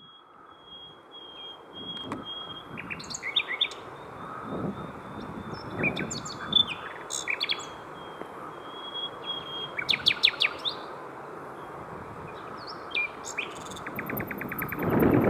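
Common nightingale singing a varied song: a long held whistle, quick rattling and clicking phrases, and near the end a fast repeated chatter. Steady background hiss underneath, with a swell of wind on the microphone near the end.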